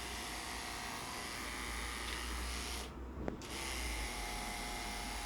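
Electric pet hair clippers running steadily with a faint hum and hiss while shaving a cat's coat, the sound briefly dropping out about three seconds in.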